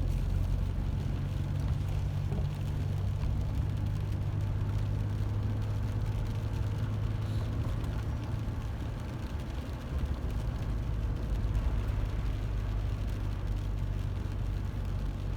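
Car moving along a road, heard from inside the cabin: a steady low engine and tyre rumble.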